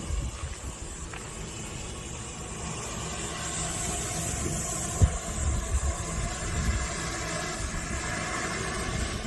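Spraying drone's propellers running steadily, with wind buffeting the microphone in low gusts. A single sharp knock comes about five seconds in.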